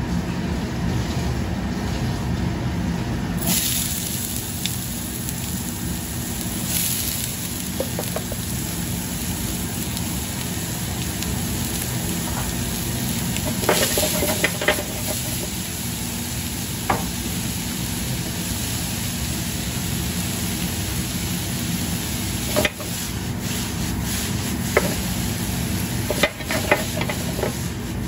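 Diced onions sizzling as they fry in hot oil in a steel frying pan on a gas range. The hiss starts abruptly about three and a half seconds in, when the onions go into the oil, and holds steady over a low rumble. A few sharp clinks and knocks come from the pan being stirred and handled.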